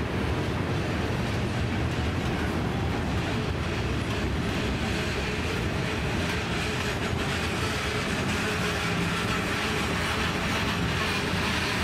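Freight train cars rolling past at steady speed: steel wheels running on the rails, a continuous even rumble and rattle of tank cars, covered hoppers and boxcars going by.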